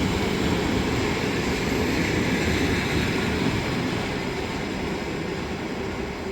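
Passenger train hauled by 060-EA electric locomotives rolling along the track, a steady rail rumble that eases off in the last couple of seconds.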